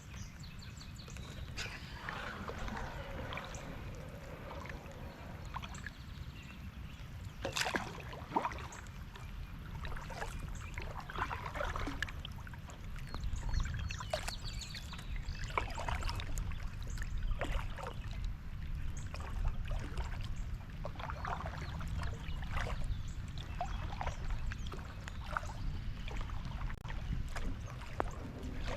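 Kayak paddle dipping into lake water, with splashes, drips and trickles at irregular intervals over a low steady rumble.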